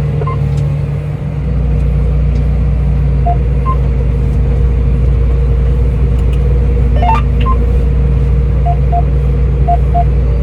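Flip phone keypad tones: short single beeps, some in pairs, as keys are pressed for T9 texting. They sound over the steady low rumble of the tractor's engine, which grows fuller about a second and a half in.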